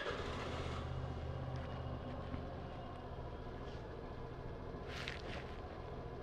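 Motorcycle engine running with a steady low hum under road and wind noise, picked up by an external mic taped under foam on a helmet-mounted action camera. A short rush of wind noise comes about five seconds in.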